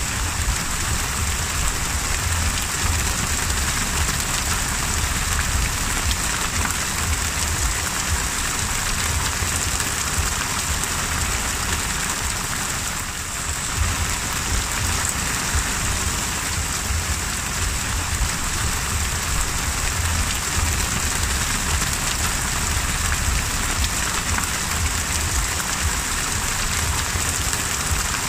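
Heavy rain falling on the open sea: a steady, dense hiss of drops striking the water surface, with a low rumble underneath. It dips briefly about halfway through.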